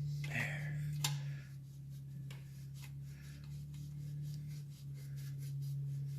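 Light scraping and scattered small clicks of metal exhaust parts being worked and fitted by hand, over a steady low hum.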